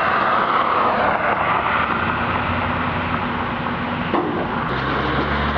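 A heavy truck's diesel engine running under a steady rushing noise, its low hum becoming clearer a couple of seconds in; a click near the end, after which the engine hum changes pitch.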